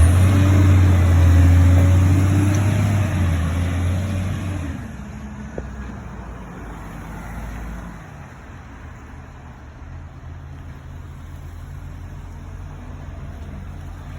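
Garbage truck engine running loudly close by with a steady whine over it, fading sharply about five seconds in as the truck moves away, then running on quietly.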